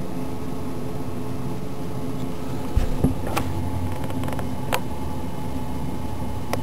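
Steady hum of a desktop computer's fan motor running, with a few short clicks a little before halfway and again past the middle.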